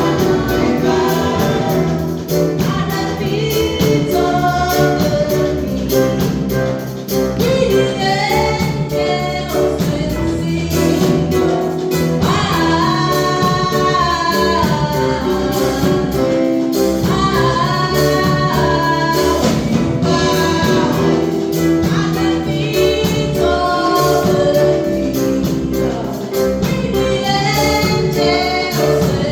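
Gospel worship song: a choir sings held, gliding notes over steady instrumental backing.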